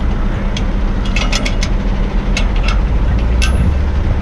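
A heavy dump truck's diesel engine idling steadily, with scattered sharp metallic clicks and clinks from the tailgate's pins and latches being handled; the loudest clink comes about three and a half seconds in.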